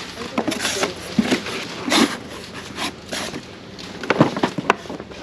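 Objects being picked up and handled: scattered clicks and knocks, loudest about two seconds in and again near four seconds, over low rustling.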